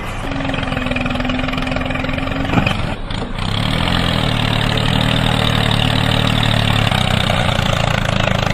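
An engine running steadily. It breaks off briefly about three seconds in and comes back louder as a steady low hum.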